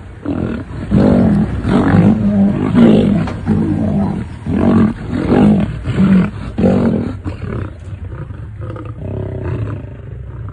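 Lion roaring: a run of deep grunting roars about two a second, tailing off into quieter grunts after about seven seconds.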